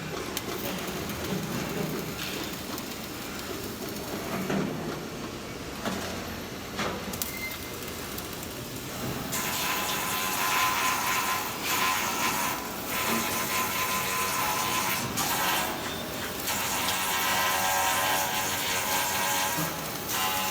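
Flux-cored arc welding on stainless steel: the arc sets in about nine seconds in with a steady crackling hiss.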